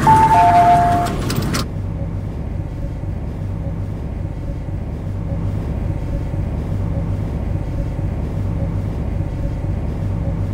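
The MTR C-Train's two-tone door chime sounds and ends about a second in; after it the train stands with a steady low hum that pulses slowly and evenly.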